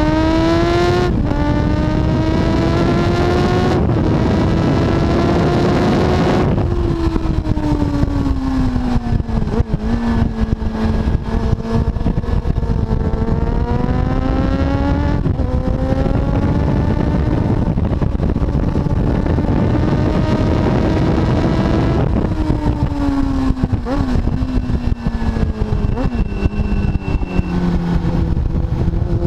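Kawasaki ZX-7R inline-four engine ridden hard on track, with heavy wind noise. The pitch climbs through two upshifts, about one and four seconds in. It falls away off the throttle, climbs again for about twelve seconds through another upshift, then falls away once more.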